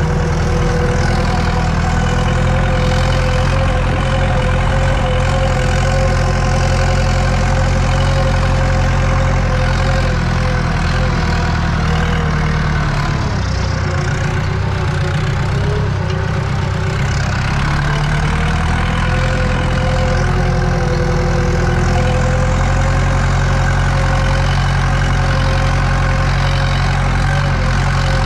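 Eicher tractor's diesel engine running steadily while pulling a cultivator, heard from inside the cab. About halfway through the engine note sags for a few seconds, then comes back up to speed.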